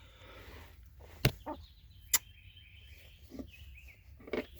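Quiet background with two sharp clicks, about a second apart, and a few softer knocks, over faint high bird chirps.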